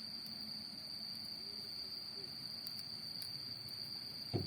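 Autumn crickets chirring in one continuous, steady high-pitched trill. A short dull thump near the end.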